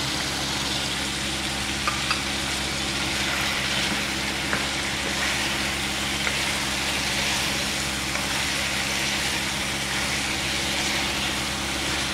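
Chicken, tomato and green chilli pieces sizzling in oil in a pan while a spatula stirs them, with a few light knocks of the spatula on the pan over a steady low hum.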